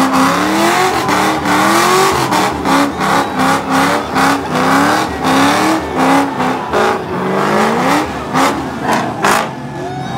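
Car engine revving hard during a burnout, its pitch climbing in short repeated sweeps, with sharp crackles throughout. The revving eases off near the end.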